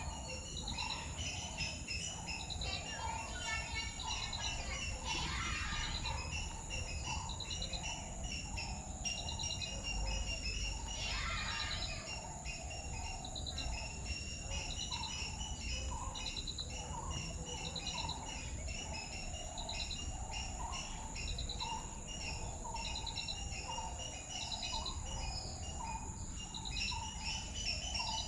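Several birds chirping and calling together, with one short trill repeating about once a second over a steady high-pitched insect drone.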